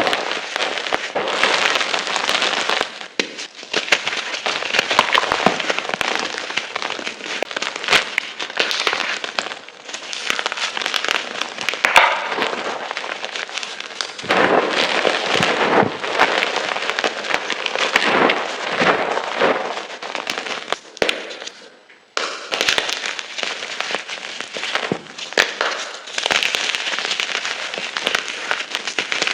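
Gym chalk being crushed and crumbled by hand close to the microphone: dense crackling crunches with many sharp snaps, in runs of a few seconds with short pauses between them, and one brief drop to near quiet about three quarters through.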